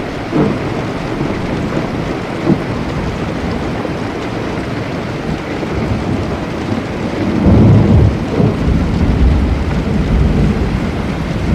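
Steady heavy rain with thunder: a couple of short cracks early, then a loud low rumble of thunder rolling from about seven seconds in.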